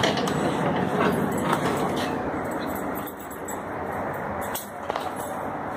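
Steady running rumble of a passenger train, heard from inside a Humsafar Express sleeper coach, with a few sharp clicks about five seconds in.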